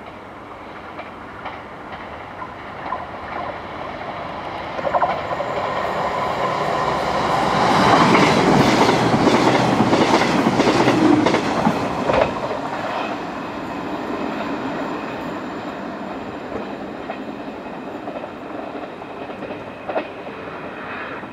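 CrossCountry Voyager diesel multiple unit approaching and passing close by. The sound builds to a loud peak about eight to twelve seconds in, with the wheels clicking in a rhythm over the rail joints, then falls back to a steadier, lower level.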